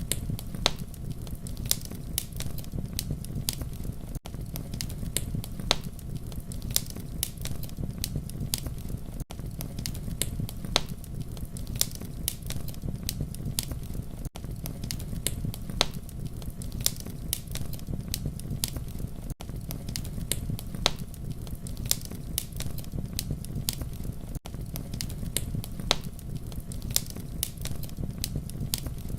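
Wood fire crackling and popping: irregular sharp snaps over a steady low rumble of burning. The sound is a loop that repeats about every five seconds, with a brief dip at each seam.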